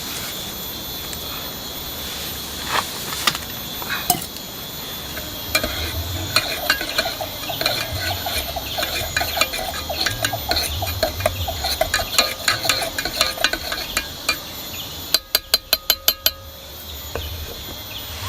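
Steady rain hiss with a spoon clinking and scraping in a metal pot, a rhythmic stirring from about five seconds in to about fourteen. Near the end a quick run of about eight sharp clicks while the rain noise briefly drops away.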